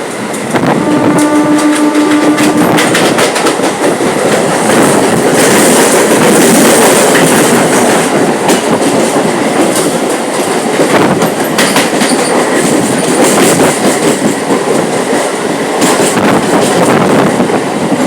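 Electric multiple-unit (EMU) local train running, heard from on board: steady, loud running noise with wheels clattering over rail joints and points. About a second in, a steady pitched tone sounds for about two seconds.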